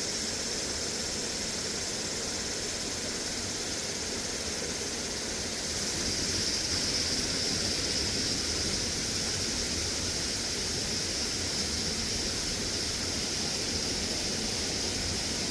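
Steady rush of a valley stream, with a high insect buzz over it that grows louder about six seconds in.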